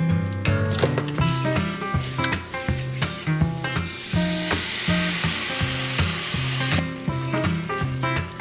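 Browned sausage and flour sizzling in a hot skillet with a spatula stirring. The sizzle grows louder for a few seconds in the middle as cold milk is poured into the pan for sausage gravy, then drops back.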